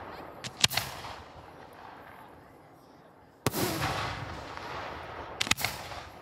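Aerial firework shells going off: two sharp cracks about half a second in, then a loud boom about three and a half seconds in that fades away in a long echoing rumble, then two or three more sharp cracks near the end.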